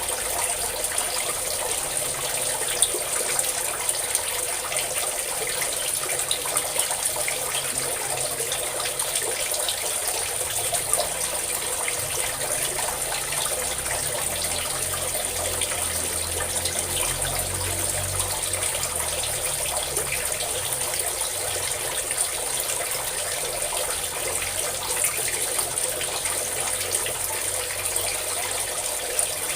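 Steady stream of pouring water splashing, an even rushing hiss with small splashes throughout.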